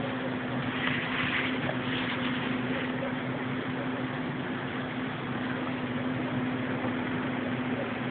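A steady, low mechanical drone: a constant hum under a continuous hiss of noise, a little louder for a moment in the first two seconds. Its source is unidentified; it is the loud noise that woke the people recording it.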